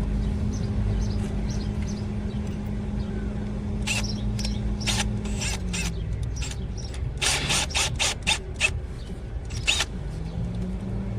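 A scatter of sharp metallic clicks and taps as hand tools and a screw extractor are handled. Underneath runs a steady low hum whose pitch sags in the middle and comes back near the end.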